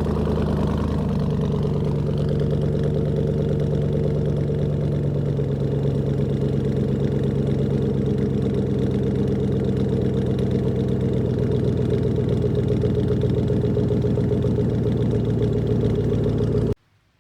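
A 2018 Chevy Silverado's 5.3 V8 idling through true-dual straight pipes with no mufflers or resonator, the factory cats kept. It settles to a steady idle with a choppy pulse in the first second or two, then cuts off suddenly near the end.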